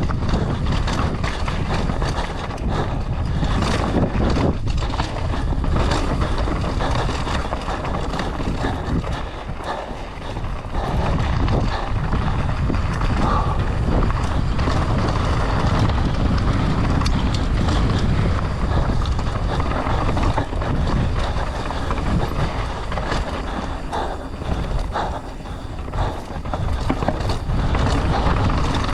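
Wind rushing over the microphone and mountain bike tyres rolling on a dirt trail at speed, with frequent clattering knocks from the bike over rough ground.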